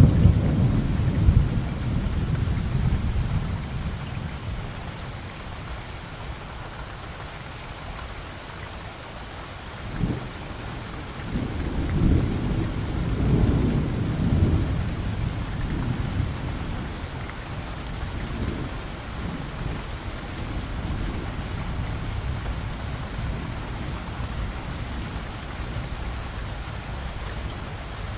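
Steady rain falling, with thunder rolling underneath. A rumble fades out over the first few seconds, then a sharp crack comes about ten seconds in, followed by a longer rumble that swells and dies away.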